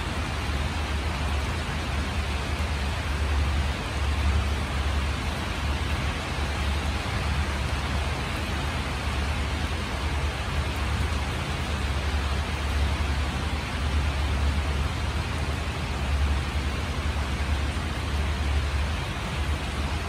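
Steady rain making an even hiss, over a deep rumble that swells and fades unevenly.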